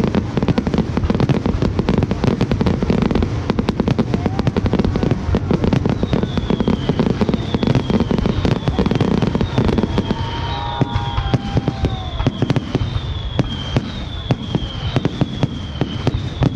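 A fireworks display with many shells going off in quick succession: dense, rapid crackling and popping with bangs. From about six seconds in, a high chirping tone repeats a little over once a second.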